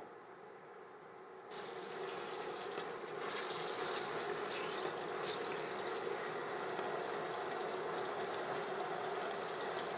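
Chicken pieces sizzling as they fry in hot oil in a saucepan: a steady hiss with fine crackles that starts about a second and a half in and grows louder about three seconds in.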